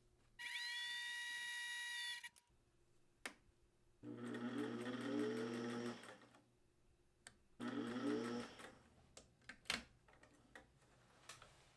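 Electric sewing machine running in three short bursts, each starting with a rising whine as the motor speeds up. The first burst, about half a second in, is higher-pitched and holds steady for about two seconds; the next two come about four and eight seconds in. Light clicks fall between the bursts.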